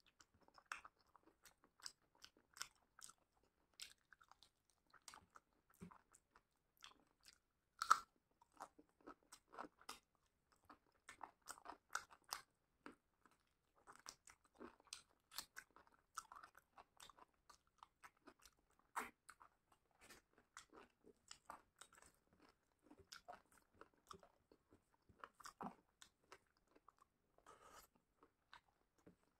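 Quiet, close-miked chewing and biting of a curried chicken leg eaten by hand: irregular wet mouth clicks and smacks, with a sharper crunch about eight seconds in.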